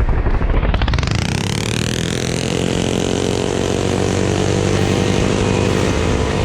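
Mini bike engine revving up from low to high over about two seconds, then holding a steady high pitch at full throttle as the bike runs.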